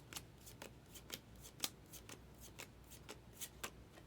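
2024 Topps Heritage baseball cards being flicked through one after another, a quick quiet snap of card stock for each card, about four a second.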